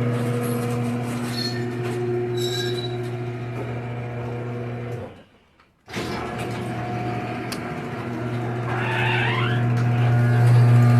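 Electric garage door opener running, a steady low motor hum with the door moving on its track, some high squeaks from the rollers. The sound drops out for about a second midway, then resumes and grows louder near the end; the foil-insulated door moves normally.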